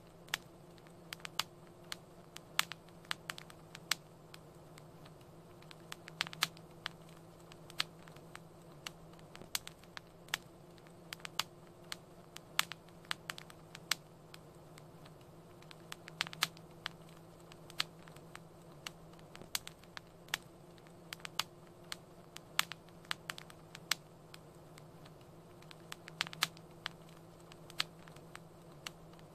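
Wood fire crackling in a fireplace: frequent irregular sharp pops and snaps over a soft, steady low rumble.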